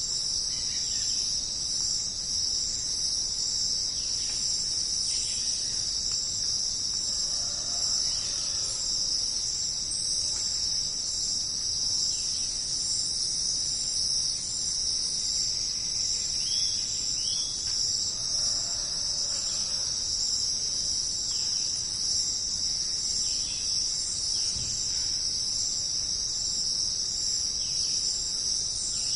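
Steady, high-pitched jungle insect chorus, with a few faint short calls from other animals scattered through it.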